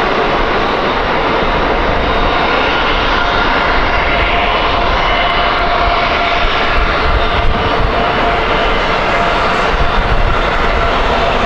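Jet airliner engines running loud and steady: a broad rush of noise with a steady high whine over it.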